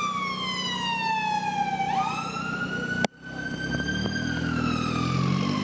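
Fire service vehicle siren sounding, each cycle a slow downward slide in pitch followed by a quick jump back up. About three seconds in there is a sudden click and brief dropout, and a heavy engine's low running sound comes in under the siren.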